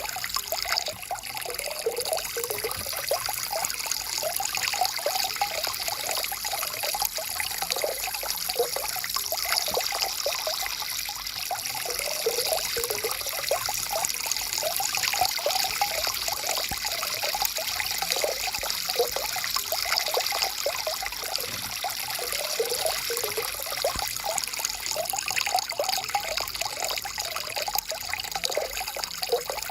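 A stream of water flowing and trickling steadily, with a constant run of small bubbling, gurgling splashes over a soft hiss.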